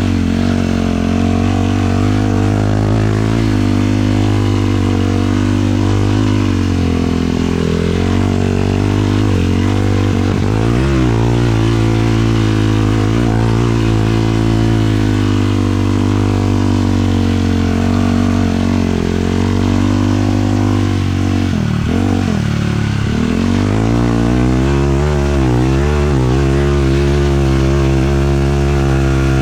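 Single-cylinder 450cc four-stroke sport-quad engine running steadily under throttle. About three-quarters of the way through, the throttle eases off, the pitch drops briefly, and it climbs back as the quad accelerates again.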